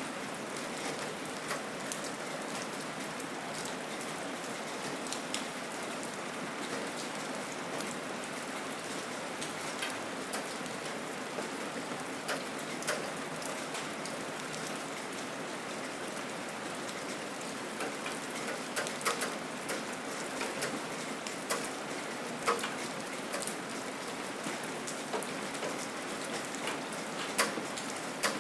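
Steady rain falling, an even hiss with scattered louder drops striking close by.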